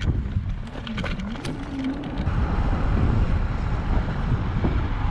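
Wind rumbling on the microphone and road noise from a moving electric bike, with a hiss that grows louder about two seconds in.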